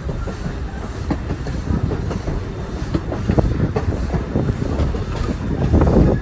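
Passenger train cars rolling down a steep grade, heard from aboard: a steady rumble with irregular clicking and clattering of the wheels on the rails.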